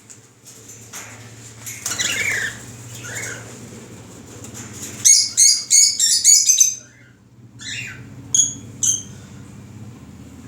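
Small cage birds chirping: a rustling burst with a couple of squawky calls early on, then a fast run of loud high-pitched chirps about halfway through, followed by a few single chirps.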